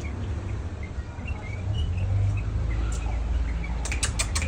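Caged bulbuls giving short, faint chirps over a low rumble, with a quick run of sharp clicks near the end.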